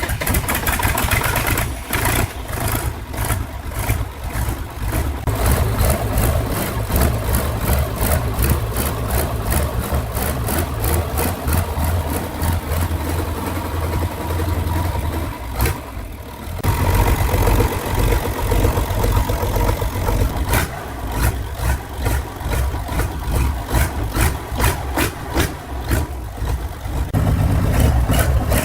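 Engine of a freshly restored machine running with a steady, even firing beat. The sound drops out for about a second about halfway through, then resumes as before.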